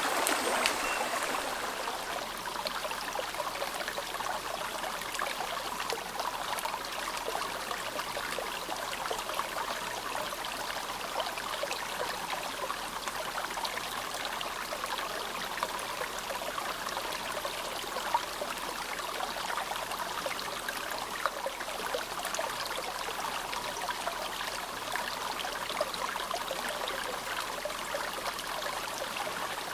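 Clear, snowmelt-fed mountain river babbling steadily, a continuous rush of water without pauses.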